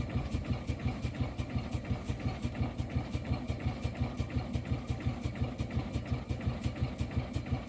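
Garrett showman's steam traction engine running steadily, with an even beat of about six strokes a second.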